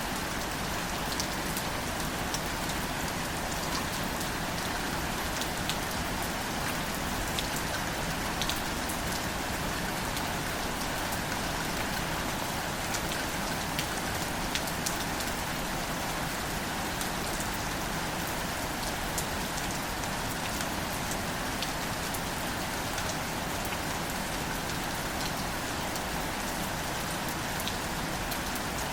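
Steady rain falling on wildflowers and foliage, a constant hiss dotted with many small, crisp drop ticks.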